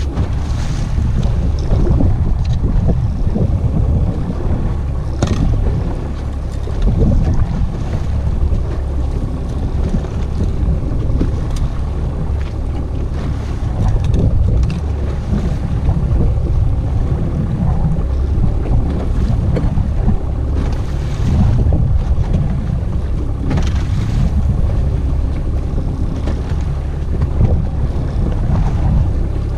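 Boat underway on open water while trolling: a steady low rumble of wind buffeting the microphone and water rushing along the hull, with a few brief splashes.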